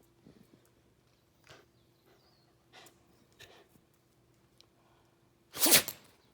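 A Shiba Inu lets out one loud, short huff of breath near the end, after a few faint brief noises.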